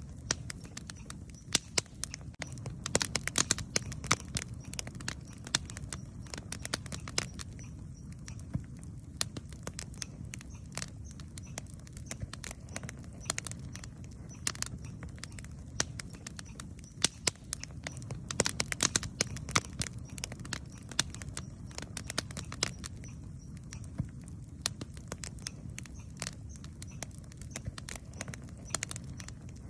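Campfire burning, crackling with irregular sharp pops that come thicker in a couple of flurries, over a steady low rumble.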